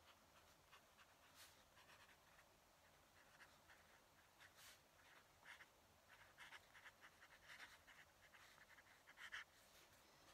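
Fountain pen nib scratching across paper in quick, faint strokes, the writing busiest in the second half with its loudest stroke near the end.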